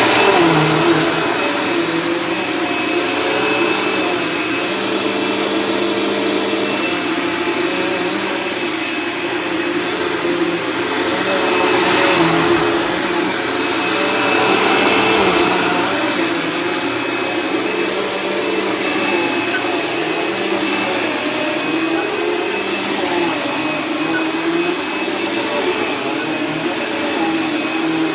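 Dirt Devil Ultra Vision Turbo upright vacuum cleaner running steadily while picking up shredded paper: a constant motor drone with a high whine, swelling slightly in loudness a couple of times midway.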